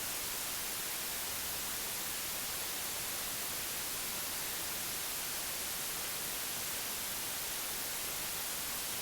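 Steady white-noise hiss, even and unchanging, with most of its energy in the high treble.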